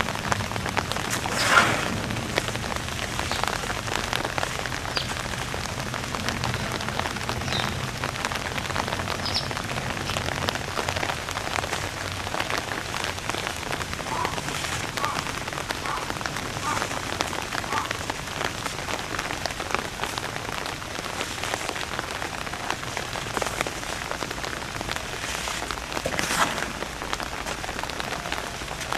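Steady patter of rain, with a sharper, louder crackle about a second and a half in and another near the end.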